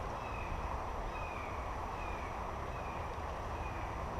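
Steady rush of creek water, with a faint, short, high chirp repeating about once a second.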